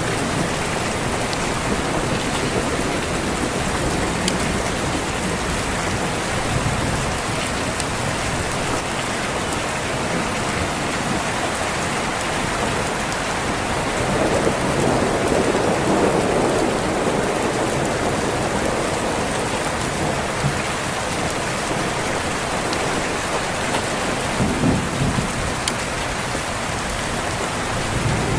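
Steady heavy rain on a window, with a low rumble of thunder swelling through the middle and a shorter one near the end.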